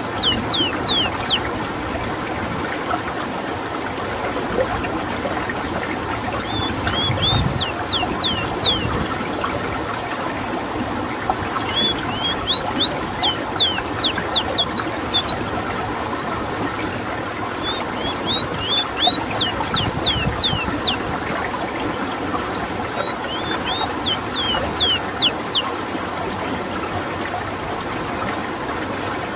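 Ruddy-breasted seedeater (rowti) singing. Each phrase is a quick run of short, down-slurred whistled notes, and the phrases repeat about every five to six seconds over a steady background hiss.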